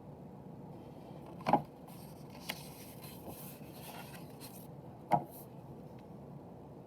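Two soft knocks about three and a half seconds apart, with light rustling between them, over a steady low room hiss.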